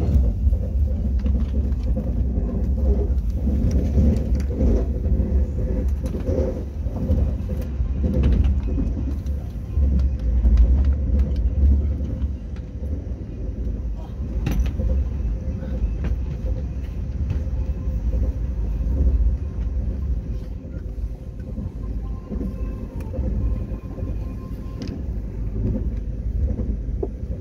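A moving passenger train running, a steady low rumble with a few faint clicks.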